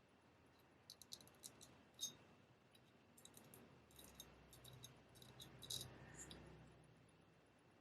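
Faint, scattered crackling scrapes of a straight razor's blade, in short strokes with gaps between them.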